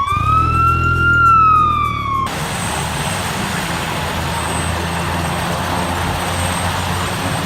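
Police motorcycle siren giving one wail that rises and then falls, cut off suddenly about two seconds in. A steady engine runs under it and carries on alone afterwards.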